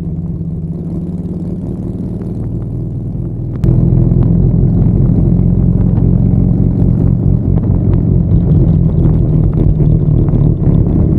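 Harley-Davidson V-twin motorcycle engine running steadily under way. About three and a half seconds in it turns abruptly louder and stays louder.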